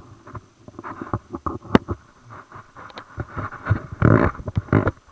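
Mountain bike rattling and knocking over a rough dirt trail, with tyre noise and irregular clicks, and two louder rattling bursts near the end.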